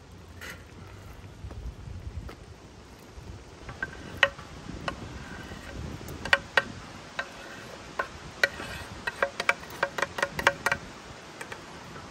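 Metal cookware clinking: a run of sharp, ringing clinks, sparse at first and coming thick and fast from about six to eleven seconds in, as a metal utensil or lid strikes a cooking pot.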